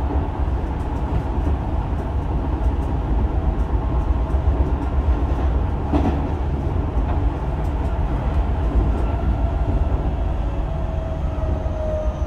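Tokyo Metro 10000 series electric train heard from inside the car, running with a steady rumble of wheels on rail and light clicks from rail joints, with a louder knock about six seconds in. From about nine seconds in, the Mitsubishi IGBT-VVVF inverter and traction motors give a whine that falls in pitch as the train slows.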